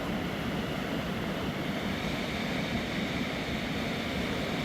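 Fast mountain river rushing over rocks, a steady, even roar of water.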